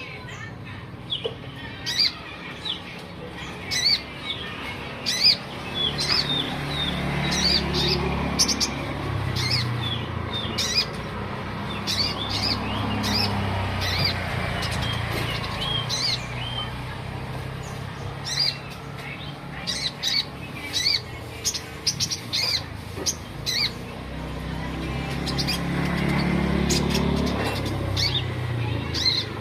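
Kolibri ninja (Van Hasselt's sunbird) singing busily: a stream of quick, sharp, high chirps and short trills, over a low background rumble that swells twice.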